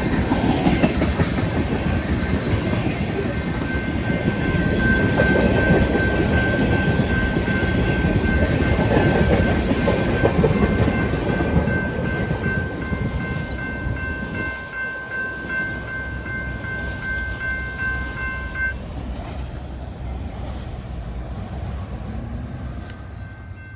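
Freight unit train rolling past, its wheels rumbling and clattering on the rails. A steady high tone of several pitches runs alongside and cuts off about three-quarters of the way through, and the rumble eases off near the end as the train goes by.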